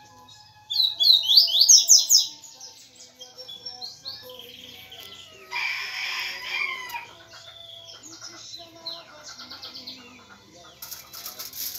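Small birds chirping, with a loud run of quick high chirps about a second in and scattered chirps after it. A short rustling noise comes around the middle and a crackle near the end.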